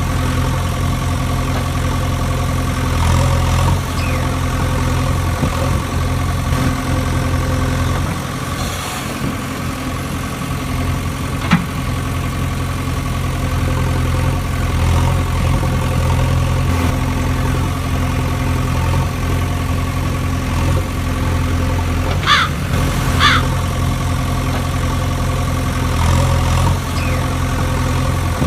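Tractor engine idling steadily with an even low hum. There is a single sharp click a little before the middle and two short high squeaks near the end.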